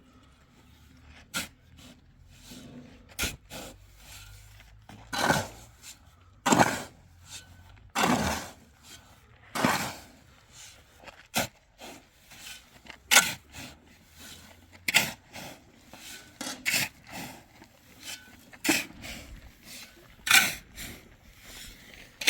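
Repeated scraping strokes of a hand tool, about fifteen, each short and spaced irregularly one to two seconds apart.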